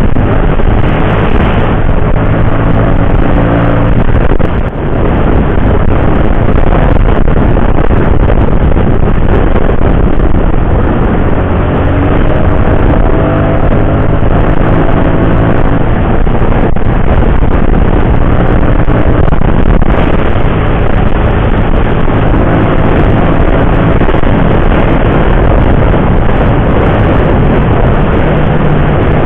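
Motorcycle engine running at road speed, its pitch rising several times as it accelerates, under loud wind rush on the rider's microphone.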